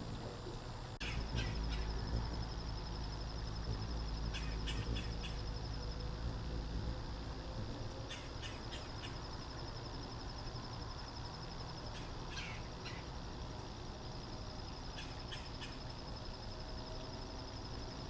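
Hummingbird giving quick clusters of short, sharp high chips every few seconds, over a steady pulsing high insect trill that stops and starts. A low rumble sets in about a second in.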